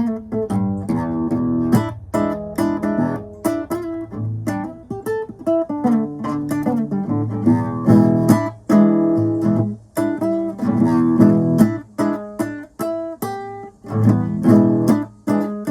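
Acoustic guitar playing a blues tune, a continuous run of picked notes and chords.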